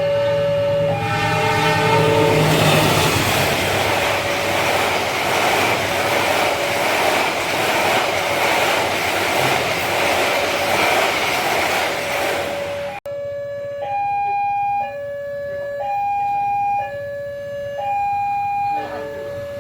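A railway level-crossing alarm sounds two tones that alternate about once a second. A passing train's loud rumble of wheels on rails drowns it for roughly the first twelve seconds. After a sudden cut the alarm goes on alone.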